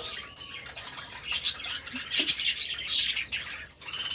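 Budgerigars chirping and chattering in short, high bursts.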